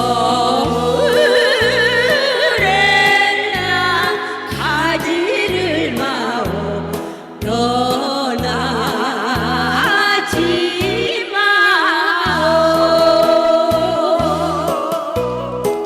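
Female vocal duo singing with vibrato over an instrumental accompaniment with a stepping bass line.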